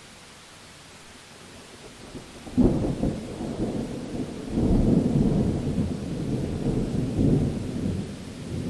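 Steady rain hiss, then a sudden thunderclap about two and a half seconds in. Rolling thunder rumbles on after it and swells again a couple of seconds later.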